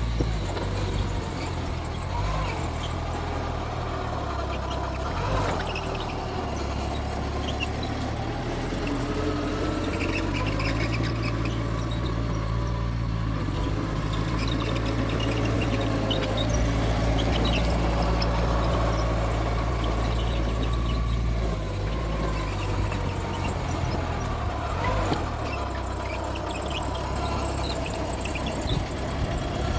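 Mitsubishi bulldozer's diesel engine running steadily under load, with squealing from the tracks and undercarriage as it pushes soil.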